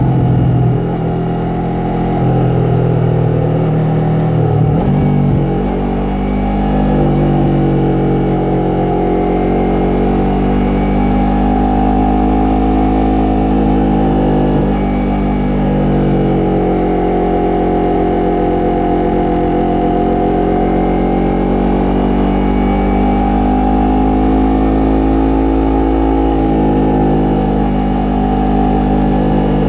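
Yamaha MT-03's 321 cc parallel-twin engine and exhaust under way, its note rising and falling as the revs change, with a sharp shift in pitch about five seconds in.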